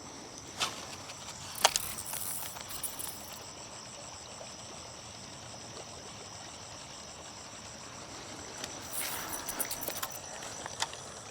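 Insects chirring, a steady high-pitched buzz, with a few sharp clicks early on and brief rustling hiss twice.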